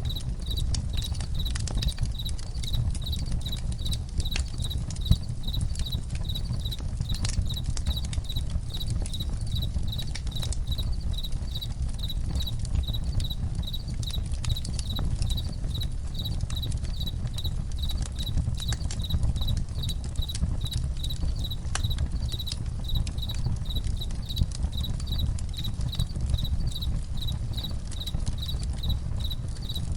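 Campfire crackling with a low steady rumble and scattered sharp pops, under crickets chirping in an even rhythm of about two chirps a second.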